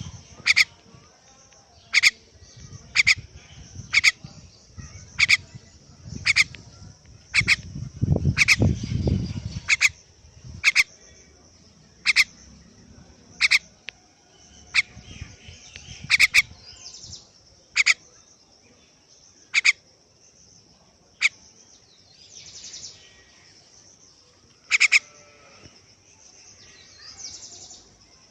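A bird giving short, sharp single chirps over and over, about one every second or two, spaced more widely later on. A low rumble of handling or wind noise comes about a third of the way in.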